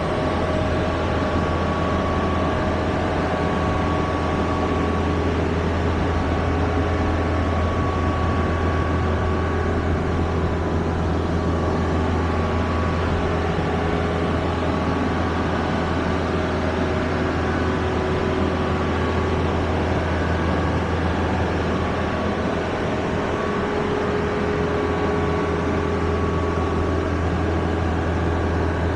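Steady low vehicle rumble, unchanging throughout, with a faint steady hum above it.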